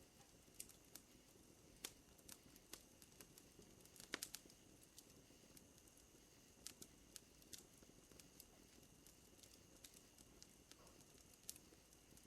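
Wood fire crackling with irregular sharp pops, a quick cluster of louder pops about four seconds in, over a steady high drone of night insects.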